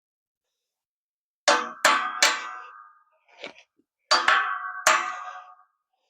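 Steel hammer striking a punch against a stuck U-joint cap in the driveshaft yoke, each blow a sharp metallic clang that rings on briefly. There are three quick blows about a second and a half in, then two more near the end. The joint is seized and does not want to move.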